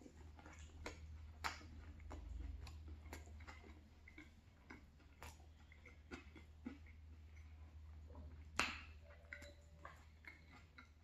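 Close-miked chewing and wet mouth smacks of a person eating saucy fried chicken 65 by hand: soft scattered clicks, with one sharper smack about eight and a half seconds in.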